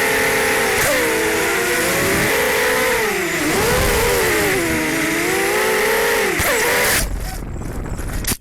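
ZMR250 racing quadcopter's brushless motors and propellers whining, the pitch rising and falling with the throttle. About seven seconds in the whine stops and a rough noise is left, which cuts off suddenly near the end.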